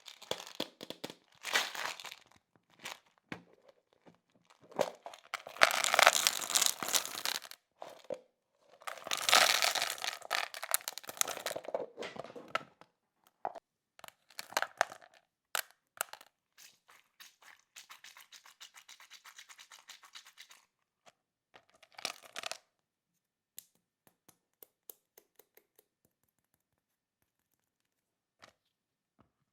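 Plastic candy packaging crinkling and tearing in several loud bursts, with scattered small clicks in between. It thins out to sparse ticks near the end.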